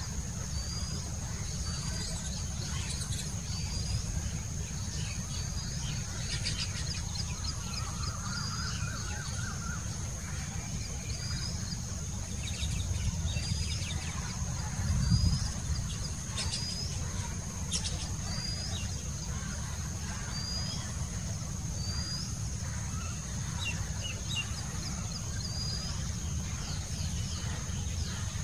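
Small birds chirping: one short rising chirp repeated about every second and a half, with scattered quick chattering calls, over a steady high-pitched whine and a steady low rumble that swells briefly about halfway through.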